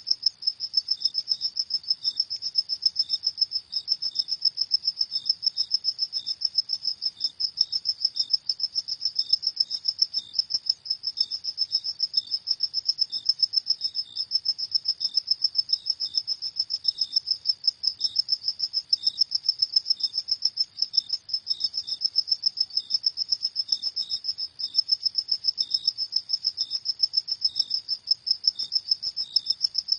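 Crickets chirping in a fast, even, high-pitched pulse that goes on without a break, with a fainter second chirping just beneath it.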